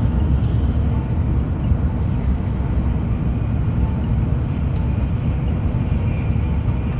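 Cabin noise of a Tokaido Shinkansen Nozomi train running at speed, heard from inside the carriage: a steady low rumble with a few faint clicks.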